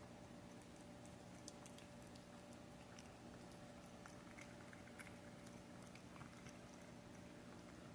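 Domestic cat eating wet paté: faint, irregular wet chewing and licking clicks, over a low steady hum.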